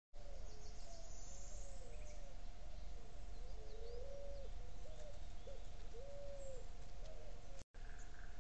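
Birds calling: a run of short, low, arching hoot-like notes, some overlapping, with a few faint high chirps early on, over a steady faint hum and hiss. The sound drops out briefly near the end.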